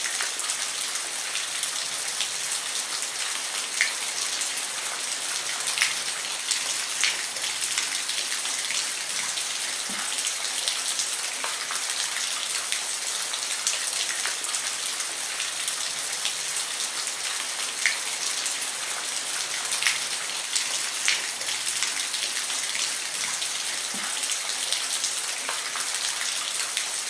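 Rain falling on a roof: a steady hiss with scattered louder drops ticking every second or two.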